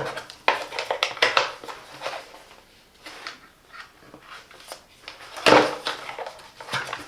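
Hard plastic vacuum-cleaner parts and accessories being handled, with irregular clicks, knocks and light clatter, the loudest bunch of knocks about five and a half seconds in.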